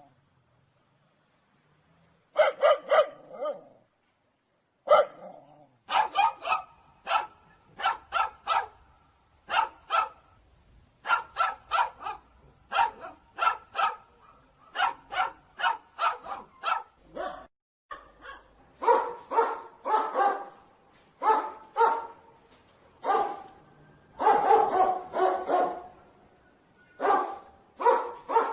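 Dog barking in rapid runs of short, sharp barks, after a brief silence at the start. About two-thirds of the way in, the barks become lower, fuller and more closely packed.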